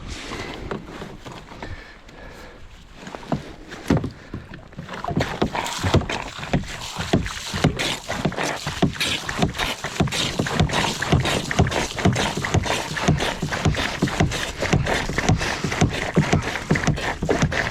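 Water splashing and slapping around a kayak moving down a river. A quieter start gives way, about four seconds in, to rapid, irregular splashes and slaps that keep on.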